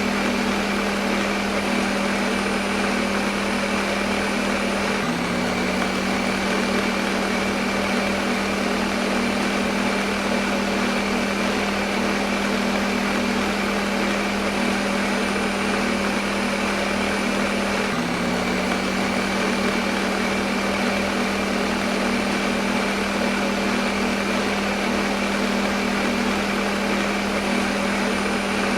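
Electric blender motor running steadily, a continuous whir with a strong low hum; twice the pitch drops briefly and climbs back.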